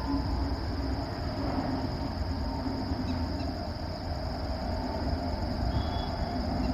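Double-decker express train running past behind a WAP-7 electric locomotive: a steady low rumble of wheels on rail between horn blasts, with the end of a horn note dying away in the first second or so.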